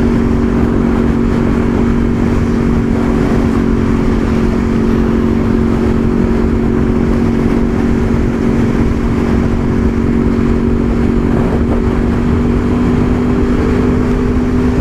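Honda VFR800 Interceptor's V4 engine running at a steady cruise, heard from the rider's seat, with wind rushing over the microphone.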